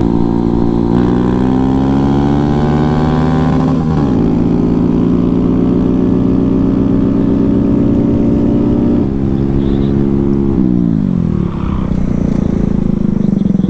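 Small single-cylinder motorcycle engine accelerating, rising in pitch, then dropping sharply about four seconds in as it shifts up. It holds a steady speed, eases off, and winds down as the throttle is closed about eleven seconds in.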